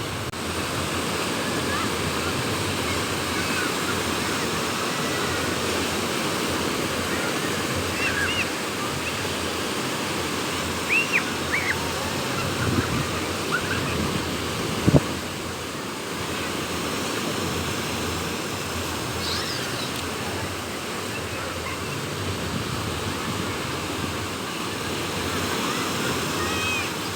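Sea waves washing onto a beach with wind, a steady rushing wash. A few faint, short high chirps come through around the middle, and there is one sharp knock about halfway through.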